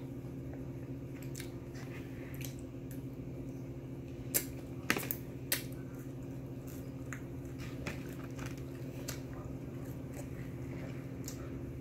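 Close-up chewing and biting of fried chicken and fries, with wet mouth sounds and a few sharp clicks a little before the middle. A steady low hum runs underneath.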